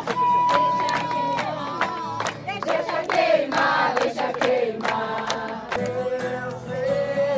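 Music with a group of voices singing, a long sung note held near the start and another near the end, and sharp claps or beats throughout.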